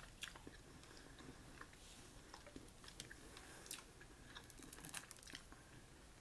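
Faint wet chewing of food, with scattered small clicks and crackles of boiled crawfish shell being broken and peeled by hand. The crackles come more often about four to five seconds in.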